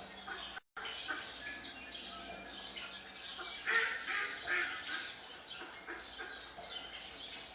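Many songbirds chirping, played through a TV's speakers, with one louder, harsher call about four seconds in. The sound cuts out completely for a moment just under a second in.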